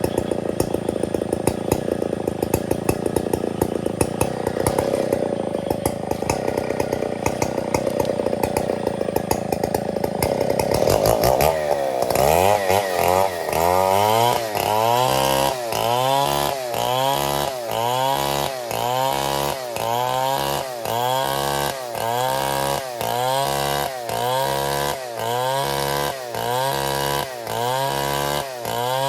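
Stihl 070 two-stroke chainsaw cutting ironwood. For the first half it runs at a steady high note. From about twelve seconds in, the engine note dips and climbs back about once a second as the saw loads and frees in the cut.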